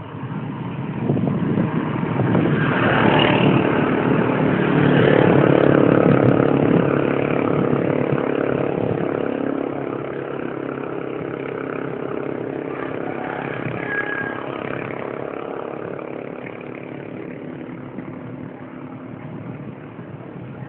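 A motor vehicle's engine passing close by, growing louder over the first few seconds and then slowly fading.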